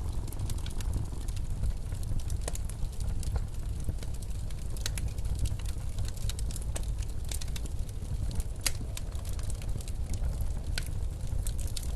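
Wood fire crackling, with irregular sharp pops and snaps over a steady low rumble of snowstorm wind.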